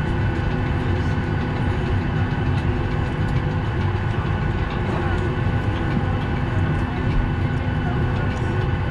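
Steady cabin noise of a Boeing 737 airliner parked at the gate: an even rush of air with a low hum and a few constant tones, unchanging throughout.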